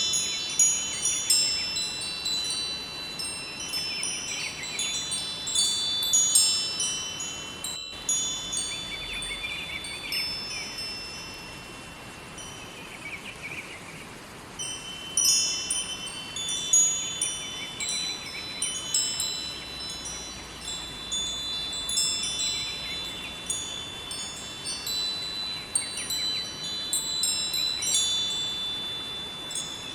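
Wind chimes tinkling in the breeze, many high ringing tones struck in clusters, thinning to a lull about halfway through, over a steady rush of river water. A momentary dropout cuts the sound about 8 seconds in.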